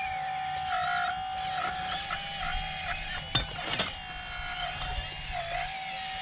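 RC excavator's small electric hydraulic pump motor whining steadily, its pitch dipping briefly several times as it takes load. Two sharp knocks come about halfway through, with high chirping sounds over the whine.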